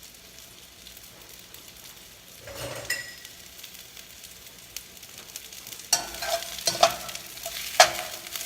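Mushrooms sizzling in hot olive oil in a nonstick skillet, with a steady hiss. In the second half a utensil stirring them knocks against the pan several times with sharp clanks.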